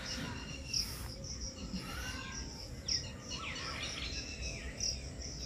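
Birds calling: a short high chirp repeated over and over, a little faster than once a second, with other birds' gliding whistled calls in the middle, over a low steady rumble.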